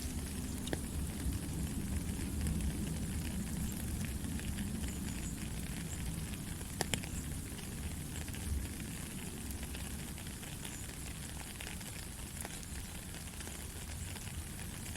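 Steady rain falling, an even hiss with a low rumble beneath and scattered sharper drop ticks, one a little louder about seven seconds in.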